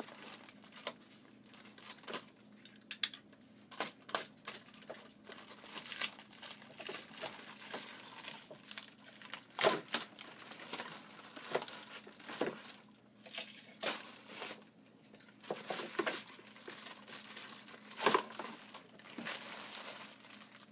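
Plastic packaging wrap crinkling and rustling as wrapped toy-car parts are handled and pulled from their box, with irregular sharp crackles and light knocks.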